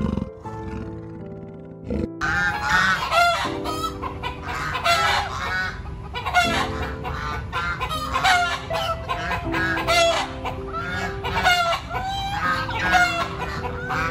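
A flock of domestic geese and chickens calling over one another, many short overlapping calls starting about two seconds in. Soft background music runs beneath.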